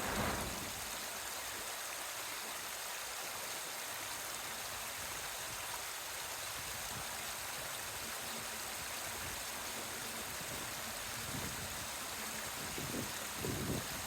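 Steady hissing background noise with no distinct events. There is a brief louder sound right at the start and a few soft low thumps near the end.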